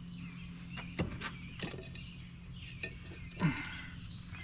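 A few sharp knocks and clinks of hand work on metal parts as an old oil filter cartridge is worked out of a tractor's filter housing. The loudest knock comes about three and a half seconds in, over a steady low hum.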